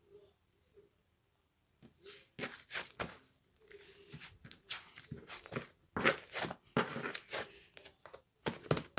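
Irregular crunching and rustling noises, a rapid string of short scrapes and clicks that starts about two seconds in.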